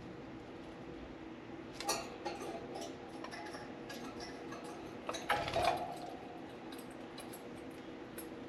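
Budgerigars pecking and chewing at a soft-wood shredding toy: scattered sharp clicks and taps of beaks on wood, with a denser burst of crunching about five seconds in.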